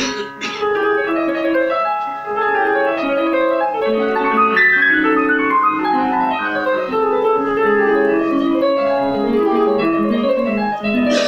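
Piano playing: a flowing passage of many quick notes moving up and down, with a loud chord struck at the start and another near the end.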